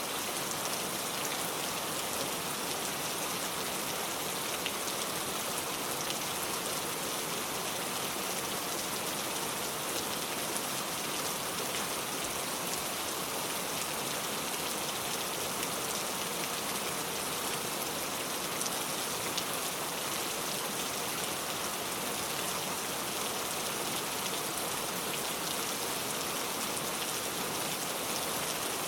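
Steady rainfall, dense drops pattering on a surface in an even hiss with fine individual drop ticks, unchanging throughout.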